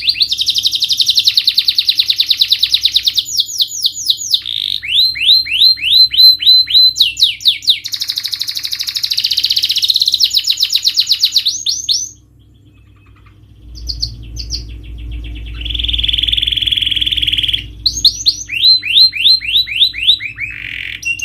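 Canary singing long trills of fast repeated high notes, pausing briefly about twelve seconds in, then a buzzy held passage and more trills. A faint low hum runs underneath.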